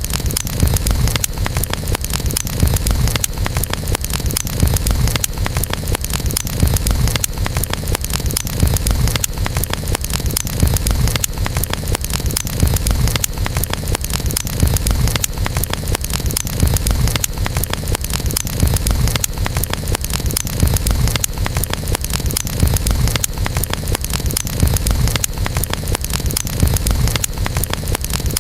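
Campfire burning: a dense, irregular crackle of popping wood over a low, steady rumble of the flames.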